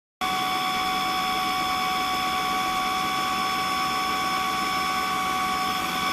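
Cordless wet-and-dry vacuum mop running steadily: a motor whine of several fixed tones over a rushing hiss. It starts abruptly just after the beginning.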